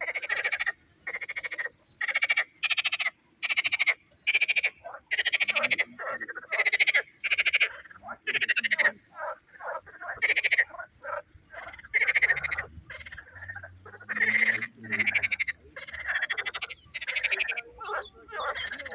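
Frogs calling: a steady run of short, rasping pulsed croaks, a little more than one a second, some overlapping as several frogs call at once.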